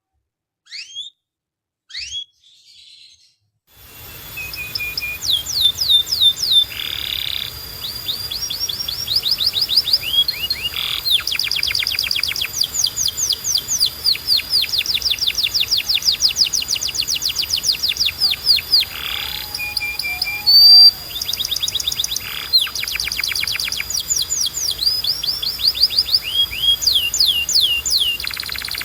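Domestic canary singing: a few separate chirps at first, then from about four seconds in a continuous song of rapid trills, each a fast run of the same sweeping note repeated many times a second, moving from one trill to the next.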